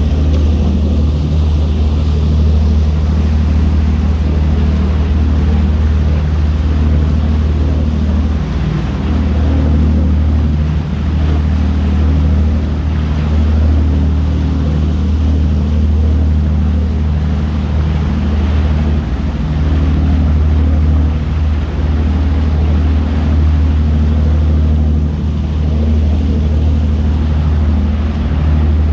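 A tour boat's engine running steadily under way: a deep, even drone with a steady hum just above it.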